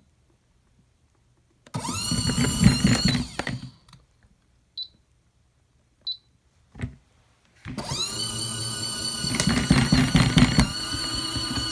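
Mini portable washing machine's spin motor starting with a rising whine, running about two seconds and stopping. Two short high beeps and a click follow, then the spinner starts again and keeps running steadily.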